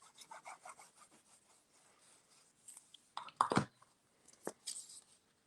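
Paper being handled, rubbed and pressed down on a craft table as pieces of a card are glued together: a run of soft scraping strokes, then a louder knock about three and a half seconds in and a sharp tap about a second later.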